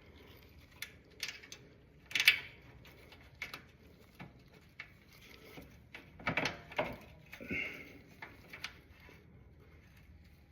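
Hand tools and metal parts clinking and knocking against the motorcycle engine in scattered taps, the loudest about two seconds in and a quick cluster of knocks past the middle.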